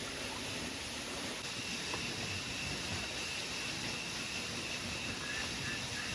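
Heavy rain falling as a steady, even hiss, with a thin high steady tone running through it and a faint repeated chirping joining about five seconds in.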